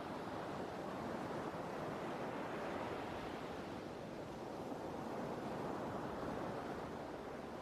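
Sea waves washing ashore as a steady wash of surf, swelling and easing slightly.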